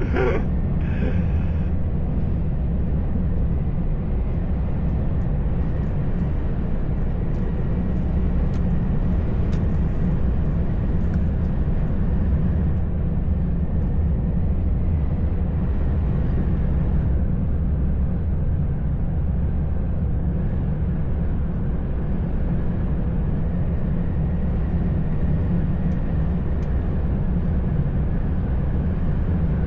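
A heavy truck driving steadily on the road: a constant low engine drone with road and tyre noise. A few faint clicks come about six to eleven seconds in.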